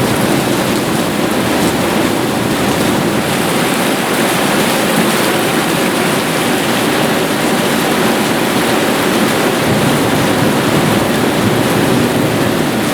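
Heavy rain pouring down in a steady, loud downpour during a thunderstorm.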